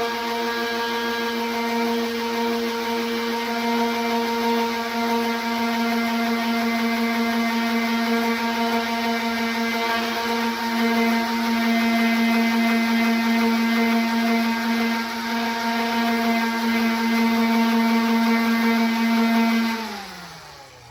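Electric orbital sander running steadily with a motor hum and the hiss of sandpaper on a car fender. Near the end it is switched off and the motor winds down with a falling pitch.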